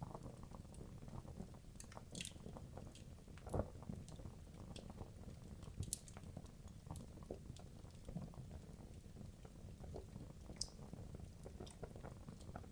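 Wood logs burning in a fireplace: a low steady rumble of flame with frequent small crackles and snaps, and a couple of sharper pops about three and a half and six seconds in.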